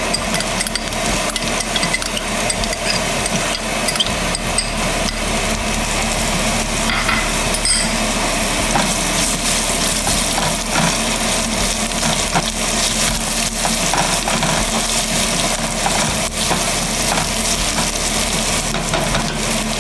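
Chopped garlic, serrano pepper, ginger and cumin seeds sizzling steadily in hot oil in a frying pan, stirred with a silicone spatula with occasional light taps and scrapes.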